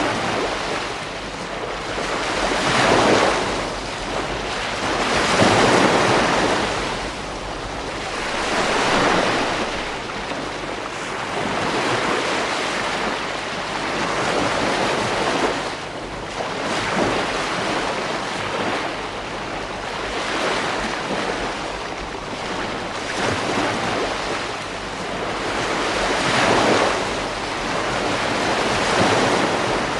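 Ocean waves breaking on a beach, the surf swelling and falling back every few seconds in an unbroken wash.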